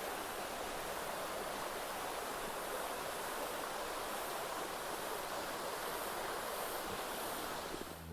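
Creek water running over rocks, a steady even rush.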